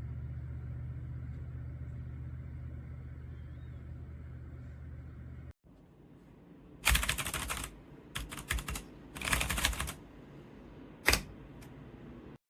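Mechanical keyboard (Redragon K556) typed on in several quick flurries of key clacks, with one single sharp clack near the end. The clacking is preceded by a steady low hum that cuts off about five seconds in.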